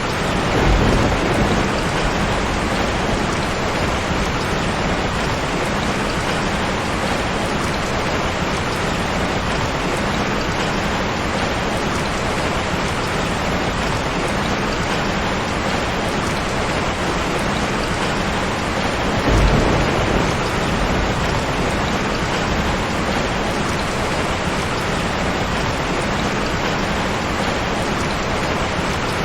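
Steady rain, with two short low rumbles of thunder, one about a second in and another about nineteen seconds in.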